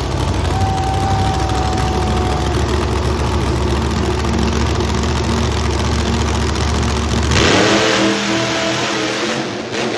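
A monster truck engine running loud with a deep, heavy rumble. About seven seconds in, the sound turns suddenly harsher and higher as the engine revs.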